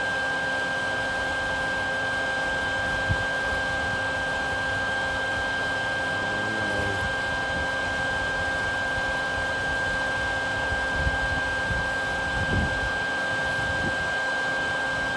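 A small motor running steadily with a constant high whine, and a couple of faint knocks.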